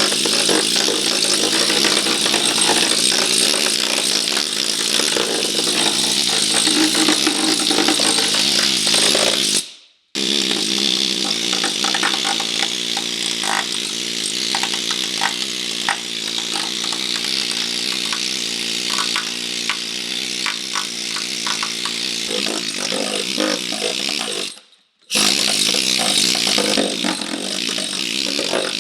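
A handheld power tool grinding on car body sheet metal during rust repair, running steadily with a hissing, high-pitched edge. It cuts out abruptly twice, about ten seconds in and near twenty-five seconds, with scattered sharp ticks in the middle stretch.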